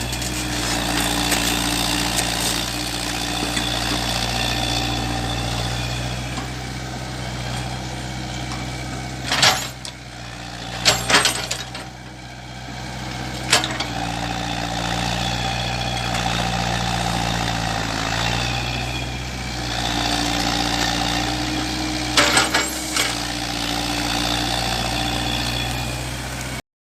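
A heavy diesel engine runs steadily. It drops off for a few seconds around the middle, then comes back up. Several sharp knocks cut through it, a few in the middle and a couple near the end.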